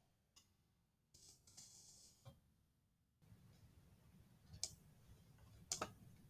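Faint room tone broken by a few scattered clicks from a computer mouse, the loudest two in quick succession near the end.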